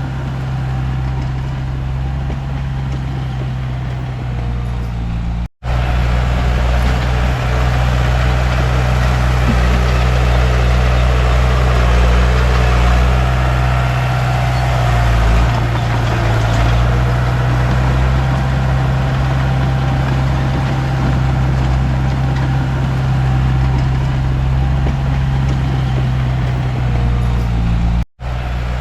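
Komatsu D31P bulldozer's diesel engine running steadily. It cuts out completely for an instant about five and a half seconds in and again near the end, and is louder between those two breaks.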